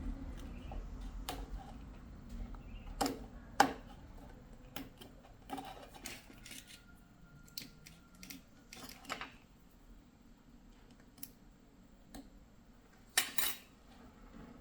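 Irregular clicks and clinks of small tools and parts being handled, with the sharpest knocks about three and a half seconds in and again near the end.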